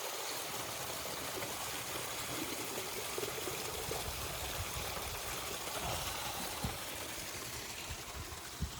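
Hot spring water running steadily, with a couple of soft low thumps in the second half.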